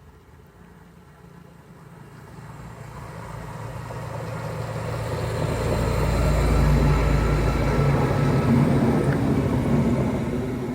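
A Class 93 and a Class 68 diesel-electric locomotive running coupled as a light engine, approaching and passing. The engine note and the sound of the wheels on the rails build steadily, are loudest from about six to ten seconds in, then begin to fade.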